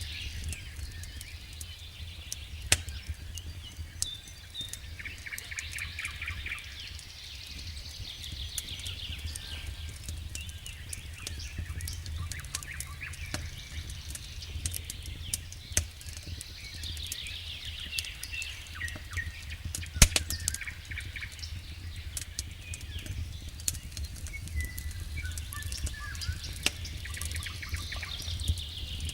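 Wood fire burning in a fireplace: a steady low rumble of the flames with irregular crackling and sharp pops from the burning logs, the loudest pop about twenty seconds in.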